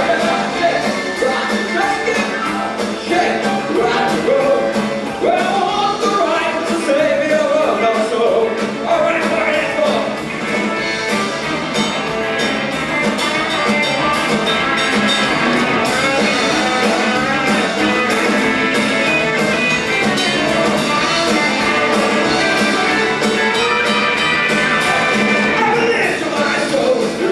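Live rock band playing: a singer's voice over electric guitar and a drum kit with a steady beat.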